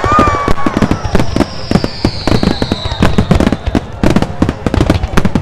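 Fireworks bursting overhead, a dense run of bangs and crackles in quick succession, with a high whistle falling slowly in pitch from about one to three seconds in.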